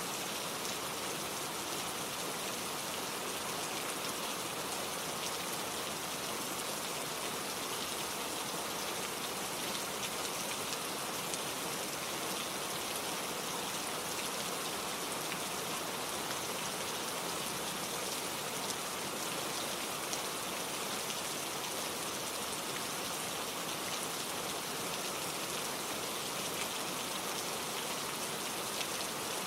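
Steady, gentle rain falling, an even hiss of drops with small scattered patters and no thunder.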